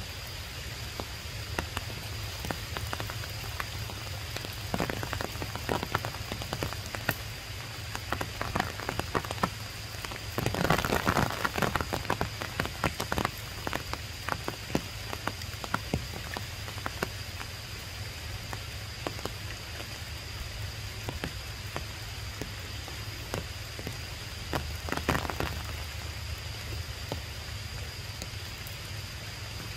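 Rain falling on tree leaves: a steady hiss with many irregular drops striking, heaviest for a few seconds about a third of the way in and briefly again near the end.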